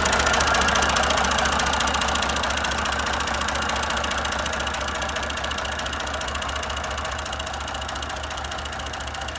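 Massey Ferguson 150 tractor engine running with a steady, rapid even beat, gradually growing fainter.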